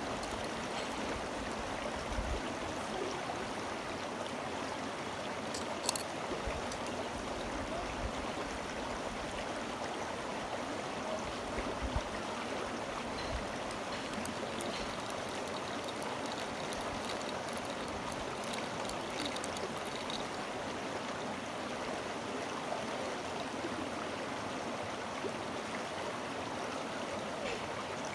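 Steady rush of flowing stream water, with a few light clicks scattered through it.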